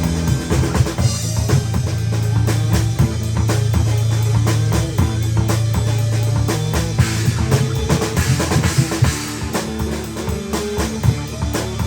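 A small rock band playing: drum kit with kick and snare hits over a steady bass line, with guitar.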